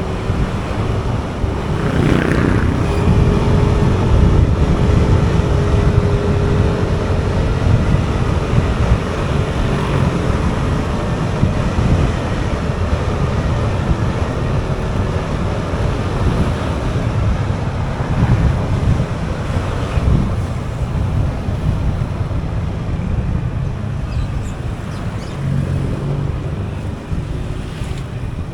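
Motorcycle on the move: wind buffeting the microphone over the bike's engine and tyre noise, steady throughout, with brief swells now and then.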